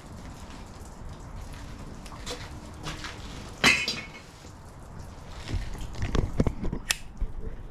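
Scattered clicks and knocks of things being handled and cleared out of a buggy frame, with one sharp knock about halfway through and a run of low thuds near the end.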